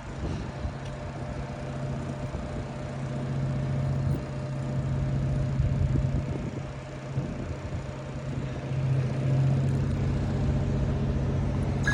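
Mister Softee ice cream truck's engine running steadily.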